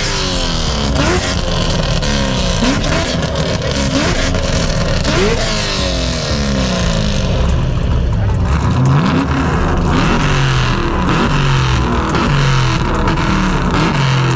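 Car engines revved hard again and again, each rev climbing quickly and sliding slowly back down. In the last few seconds an engine holds a steady high pitch, as cars do when two-stepping on a launch limiter.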